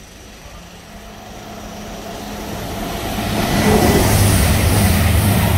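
East Midlands Railway train approaching and passing at speed, building from a distant rumble to a loud rush of engine and wheel noise that peaks about three and a half seconds in.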